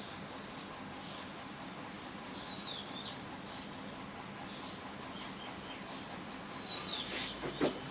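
Small birds chirping in the background, short chirps coming every second or so over a steady hiss and a pulsing high-pitched tone, with a louder call falling steeply in pitch near the end.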